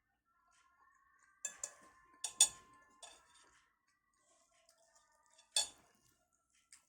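Metal cutlery clinking and scraping against a plate: a quick run of sharp clinks about a second and a half in, then a single louder clink past the middle.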